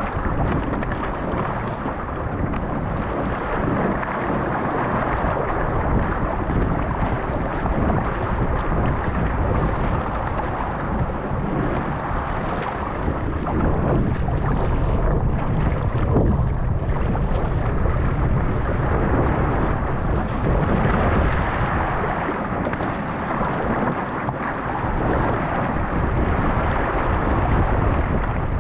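Strong wind buffeting the microphone over rushing water and waves: a steady, heavy rumbling noise that swells and eases without pause.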